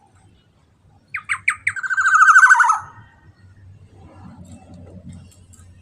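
Black-naped oriole (kepodang) calling: starting about a second in, a few quick descending notes run straight into a harsh, buzzy nasal call about a second long.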